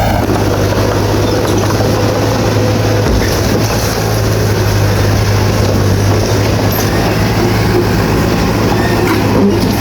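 Crawler bulldozer at work: its diesel engine running steadily with a constant low drone, over a rough clatter of its steel tracks.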